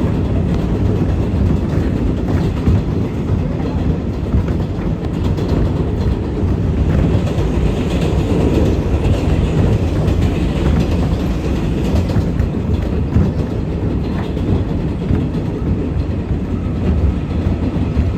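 Inside an R188 subway car of a 7 train running at speed: a steady, loud rumble of wheels on rail, with occasional clacks over rail joints.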